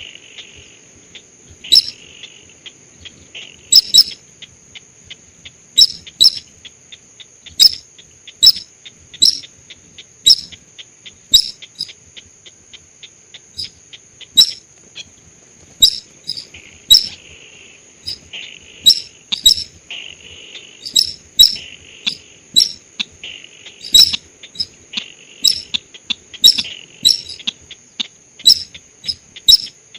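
Bird lure recording for the sintar sawah, a rice-field bird: short, sharp call notes repeated irregularly about once or twice a second. A steady high-pitched drone runs underneath.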